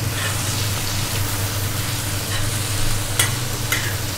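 Tomato pieces, green chillies and garlic sizzling in oil on a flat griddle as a metal spatula stirs them, with two sharp clicks of the spatula against the pan about three seconds in. A steady low hum runs underneath.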